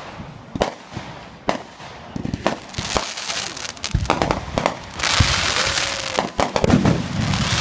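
Fireworks going off: separate sharp bangs of bursting shells, thickening about five seconds in into a dense crackling hiss, with more bangs near the end.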